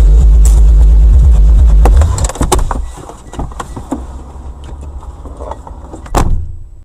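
Loud low rumble of a car on the road that drops away about two seconds in, followed by a few sharp knocks, scattered clicks and one loud thump near the end.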